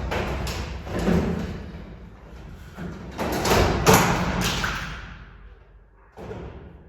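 A series of thuds and knocks with clattering noise between them, loudest about a second in and again around four seconds in, then dying away with one last knock near the end.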